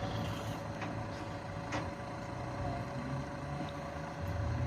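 Steady low hum of an idling motor vehicle amid street noise, with a few faint clicks.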